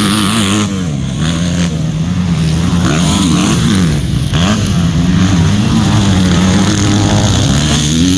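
Motocross dirt bike engines running hard, the pitch rising and falling again and again as the throttle is opened and shut.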